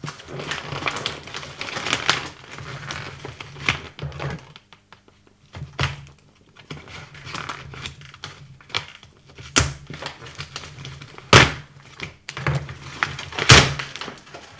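Cardboard box and packaging being handled and opened: rustling and scraping with small clicks, and three sharp knocks in the second half.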